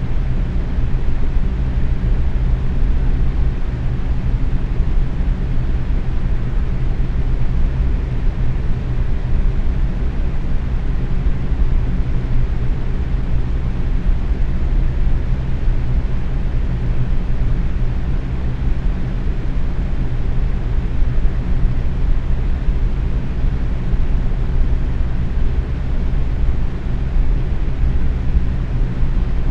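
Box fan running steadily at medium speed: a constant low whooshing rush with a steady low hum.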